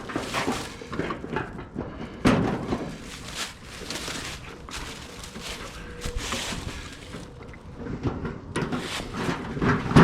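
Irregular knocks, clunks and rattles of the bird feeder's pulley rig and metal hardware being handled while the feeder is lowered, with a louder thunk about two seconds in and another at the end.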